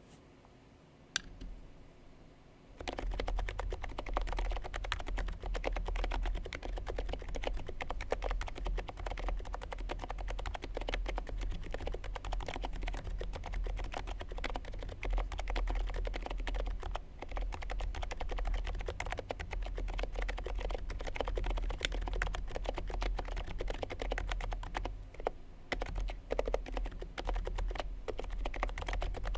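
Continuous typing on a Niz Duo 82 electro-capacitive (Topre-style) keyboard with lubed housings and sliders, Deskeys Purple rubber domes, an FR4 plate and GMK keycaps. One lone keystroke comes about a second in, steady typing starts about three seconds in, and there is a brief lull near the end.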